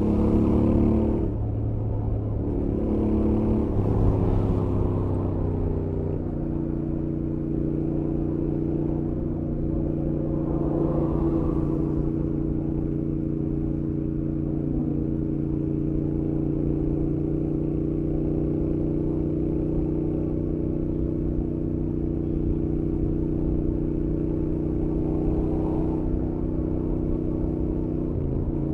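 Royal Enfield Interceptor 650's 648 cc parallel-twin engine through its stock exhaust on a highway run. The engine note shifts pitch a couple of times in the first six seconds, then holds a steady cruising speed. It is heard from the rider's helmet.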